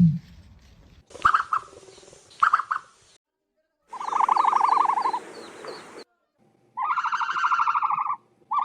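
Ostrich calls: a deep boom fades out at the very start. Then come two brief calls, a longer buzzy pulsed call about four seconds in, and two longer pulsed calls near the end, each a rapid train of pulses at a fairly high pitch.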